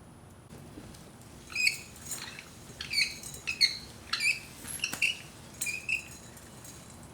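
A bird calling outdoors: a quick series of about a dozen short, sharp, high calls, each starting with a quick downward slide.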